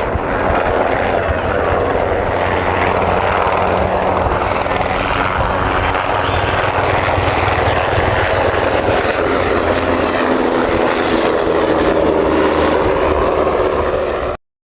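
UH-60A Black Hawk helicopter running close by: steady rotor and twin-turboshaft engine noise that cuts off suddenly near the end.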